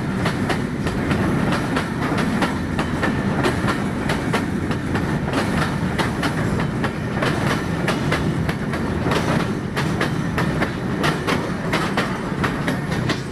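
Freight train wagons rolling past at close range: a steady rumble of steel wheels on the rails, with a constant clickety-clack of clicks as the wheels cross rail joints.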